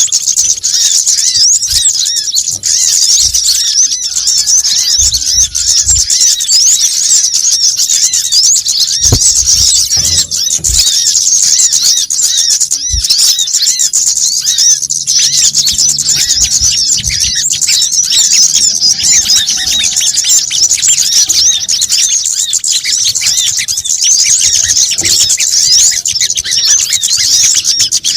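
Dense, continuous high-pitched twittering and chattering of many small birds, the calls overlapping without pause: a lure recording of sunbirds such as the brown-throated sunbird (kolibri kelapa) and similar small birds. A few faint low thumps sound underneath.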